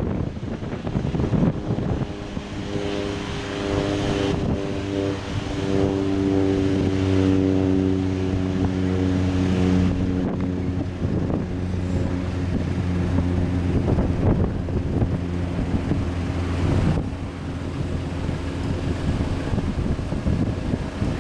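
Boeing 737 jet engines running as the airliner arrives. A steady droning tone sets in about two seconds in and fades away near the end, over wind buffeting the microphone.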